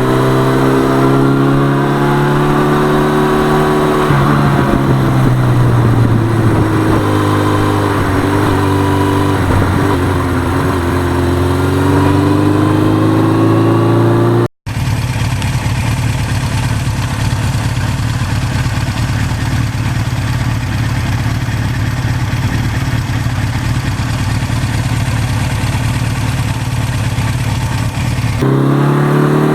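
Suzuki GS1100E's air-cooled inline-four engine running under way. The pitch drops about four seconds in, then climbs steadily as it pulls. After a short break it runs steadily at a cruise, and it rises again near the end.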